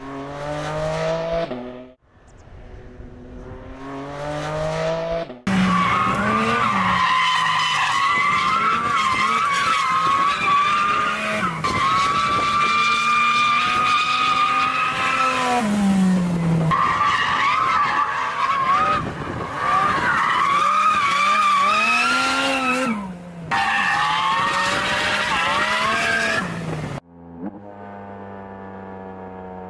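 Porsche 718 Cayman GT4 RS's naturally aspirated flat-six revving up in short clips, then long stretches of loud tyre squeal from sliding with the engine note rising and falling underneath, broken by several abrupt cuts. Near the end it drops to a quieter, steady engine note.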